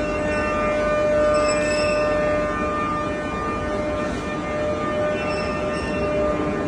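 CNC router spindle running with a steady high whine.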